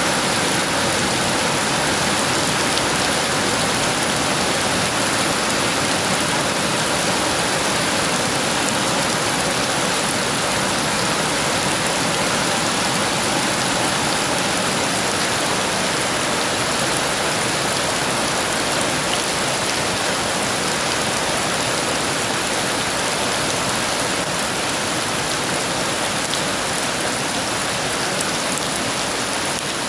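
Heavy rain pouring steadily, an even dense hiss with no changes.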